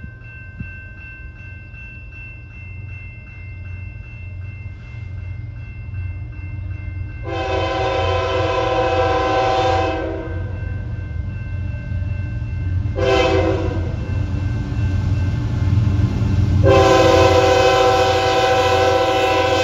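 Approaching CN freight train: the diesel locomotive's horn sounds a long blast, a short one and another long one over the locomotives' low rumble, which grows louder as the train nears.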